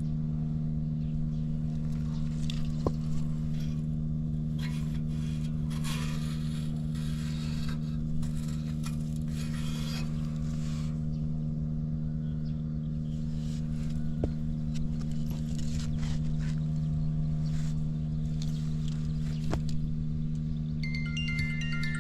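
Honda Motra AD05's small single-cylinder four-stroke engine idling steadily after a cold start, with a few light mechanical clicks. The engine runs quietly with no abnormal noises.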